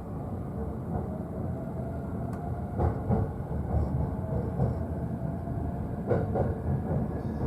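JR East E531 series electric train running, heard inside the upper deck of a bilevel Green car: a steady low rumble with the click of rail joints about three seconds in and again about six seconds in, and a faint whine that rises slowly in pitch.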